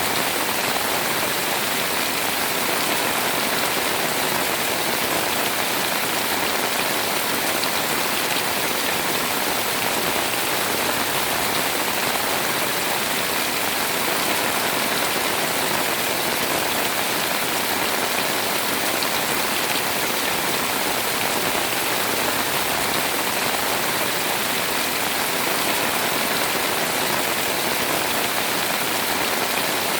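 Heavy rain pouring down, a steady even hiss of countless drops that neither swells nor lets up.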